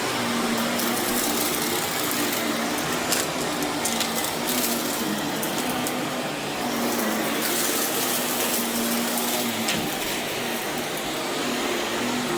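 Vacuum cleaner running steadily over berber carpet, its motor humming under the suction noise, with scattered crackles of grit and debris being sucked up.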